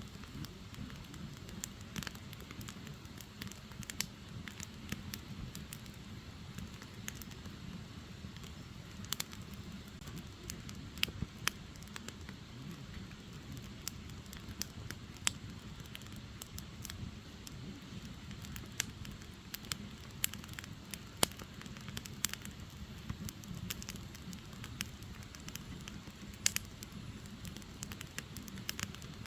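Firewood burning: a steady low rumble of flames with irregular sharp crackles and pops.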